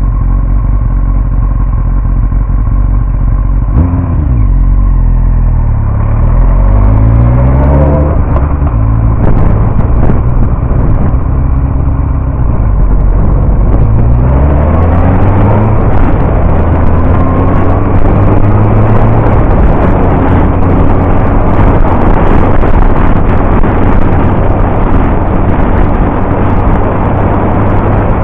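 Yamaha R1 sport bike's inline-four engine, heard from a camera mounted on the bike. It runs steadily, then pulls away twice, its pitch rising through each gear and dropping back at each upshift, and then settles into a steady cruise under a heavy rush of wind noise.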